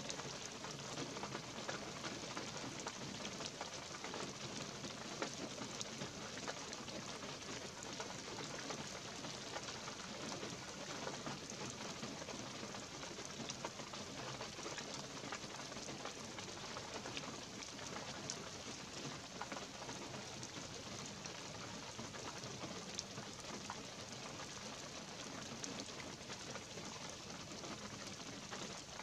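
Light rain falling steadily in a pine forest: an even patter of drops on pine needles and the forest floor, with many small individual drop ticks.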